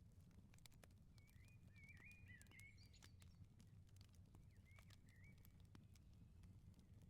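Faint crackling of a wood fire in a firepit, scattered pops and snaps over a low steady rumble. A small bird chirps briefly twice, about a second in and about five seconds in.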